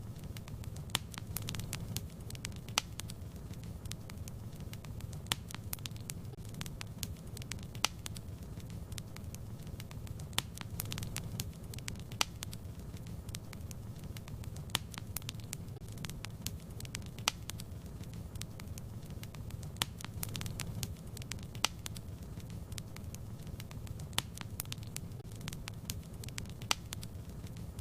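Fire crackling in a fireplace: irregular sharp pops and snaps, a few each second, over a steady low rumble.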